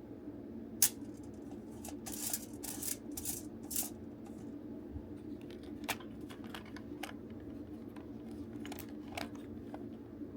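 Plastic parts of a toy transformation belt being handled and pried apart: a sharp click about a second in, a run of short scrapes around the middle, then scattered light clicks, over a steady low hum.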